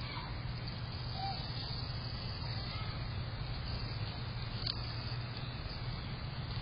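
Steady low outdoor rumble with two faint, short bird chirps in the first second or so and a faint click later on.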